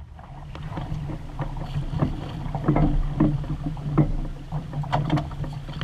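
Water splashing and slapping against the hull of a small Sunfish sailboat under way, in short irregular splashes over a steady low rumble of wind on the microphone.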